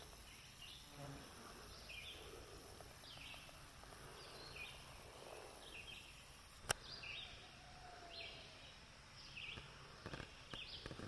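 Faint outdoor ambience with a short, high chirping call repeating about once a second. A single sharp click sounds about two-thirds of the way through.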